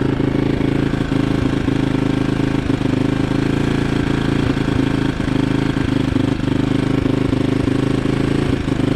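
Yamaha XT225 dirt bike's single-cylinder four-stroke engine running steadily at idle, its pitch holding even throughout.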